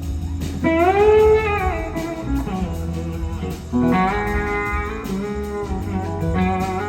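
Electric slide guitar solo, played live over the band's backing: a held note glides up and bends back down about a second in, and a new phrase slides up into a sustained note about four seconds in.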